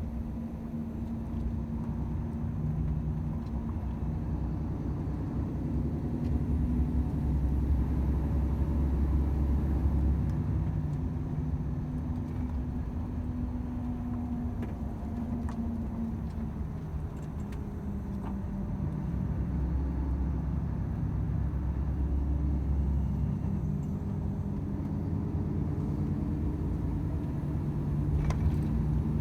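Volvo FH 500 truck's 13-litre six-cylinder diesel running steadily while driving, a continuous low drone with road rumble. The low rumble swells twice, about a quarter of the way in and again about two-thirds of the way in.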